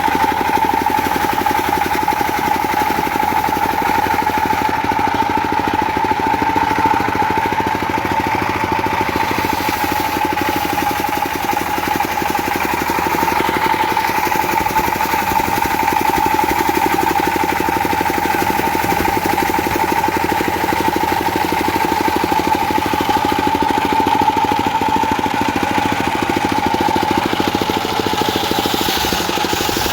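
Diesel engine driving a homemade circular sawmill, running steadily at an even speed, with a steady whine from the spinning rig.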